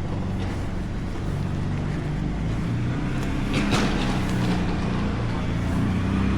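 A motor vehicle's engine running close by, with a brief swishing rush about three and a half seconds in.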